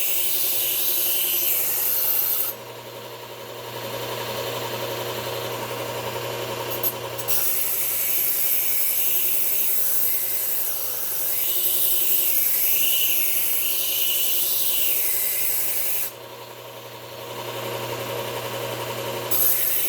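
Powered belt sharpener running with a steady hum while a knife edge is ground against the abrasive belt, a rasping hiss that raises a burr along the edge. The grinding hiss drops away twice for a few seconds while the motor keeps running.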